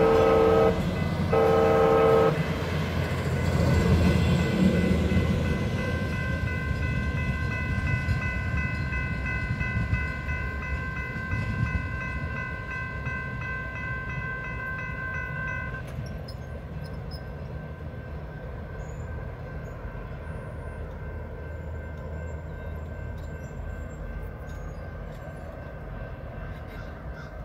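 DCTA A-train Stadler GTW diesel railcar sounding its horn, the end of a long blast and then a short blast about a second in, then rumbling past the grade crossing and fading away. The crossing's warning bell rings steadily and cuts off about 16 seconds in, as the train clears the crossing.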